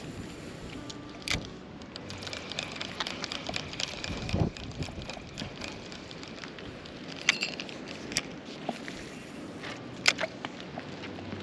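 Steady wind and water noise around a small fishing boat, with scattered sharp clicks and a dull knock about four seconds in from gear being handled on board.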